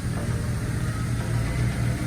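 A vehicle's engine running steadily at low revs, a low hum that pulses slightly.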